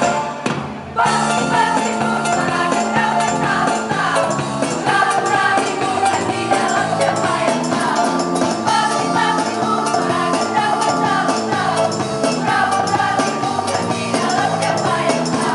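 Choir singing with instrumental accompaniment, the music dipping briefly and then coming back in fully about a second in.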